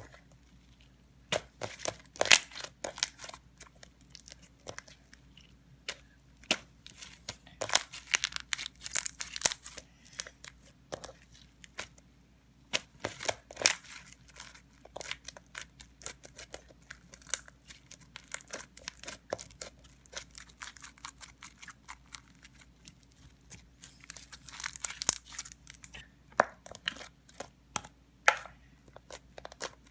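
Slime being worked and mixed by hand, making sticky crackling and popping clicks. The clicks come in dense clusters a few seconds apart, with quieter stretches between them.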